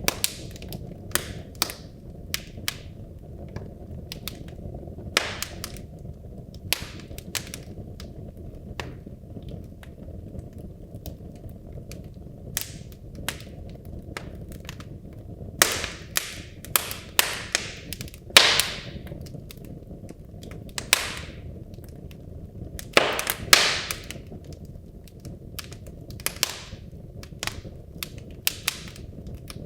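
Wood logs burning in a fireplace: irregular sharp cracks and pops over a steady low rush of flame. A few louder pops trail off in a brief hiss, the loudest about halfway through and again about three quarters of the way in.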